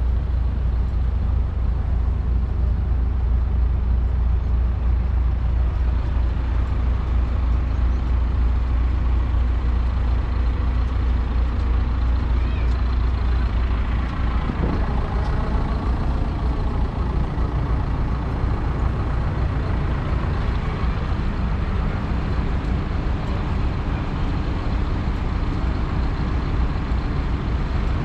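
Six-cylinder 6.1-litre diesel engine of a Fendt 724 Vario tractor running steadily, with a strong low hum. The tone shifts about halfway through.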